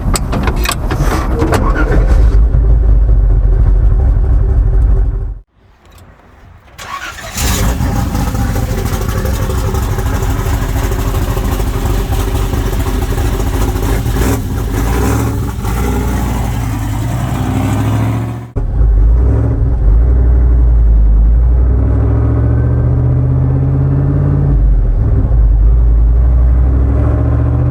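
Turbocharged truck engine running and pulling under throttle as the truck drives, broken by abrupt cuts; a loud rushing stretch in the middle, then a low engine note rising in pitch as it revs near the end.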